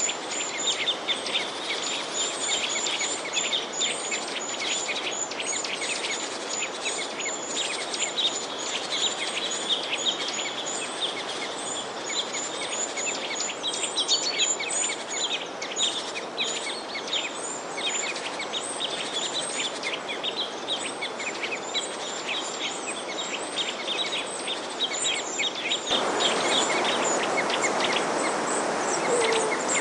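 A dense chorus of small songbirds chirping rapidly, many short high chirps overlapping without pause, over a steady rushing hiss. About four seconds before the end the hiss suddenly gets louder.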